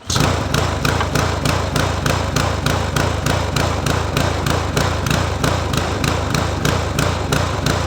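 Small single-cylinder walk-behind mower engine starting up and running steadily, with a fast, regular pulse.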